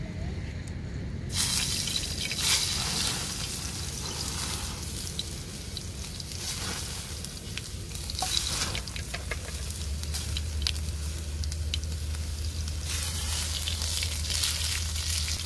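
Tomatoes frying in hot oil in a frying pan: a loud sizzle that starts suddenly about a second in, as the food goes into the oil, and keeps going, peppered with small pops and spits. The oil is very hot.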